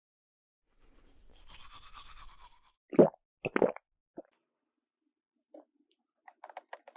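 Small plastic toys being handled: a soft rustling scrape for about two seconds, then two sharp knocks half a second apart, and a run of light clicks near the end.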